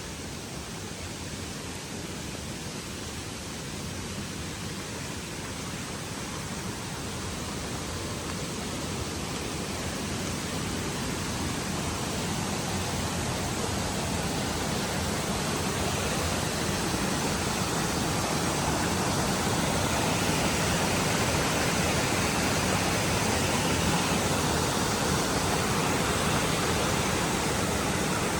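Rushing water of a stream, a steady noise that grows louder throughout as it is approached.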